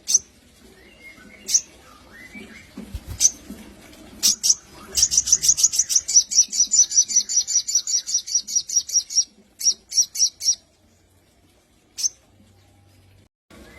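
Crimson sunbird (sogon) singing: sharp, high chirps spaced a second or so apart, then a fast run of repeated notes for about four seconds, a few more quick notes, and one last chirp near the end.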